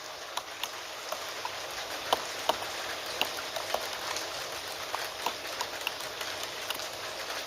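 Steady rain hiss with irregular clicks of computer keyboard keystrokes scattered over it, the sharpest about two and two and a half seconds in.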